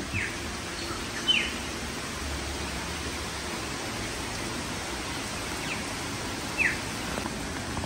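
Steady rain falling, with a bird giving a few short, high calls that each slide down in pitch, clearest at the start, about a second in and near the end.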